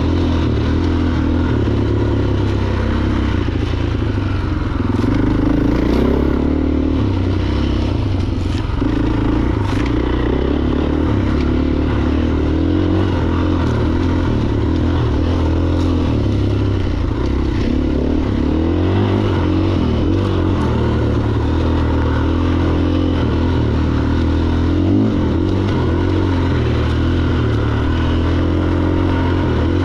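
Single-cylinder four-stroke engine of a 2023 Husqvarna FE501 Heritage enduro motorcycle running under load on a trail, its pitch rising and falling with the throttle. Occasional brief knocks and clatter.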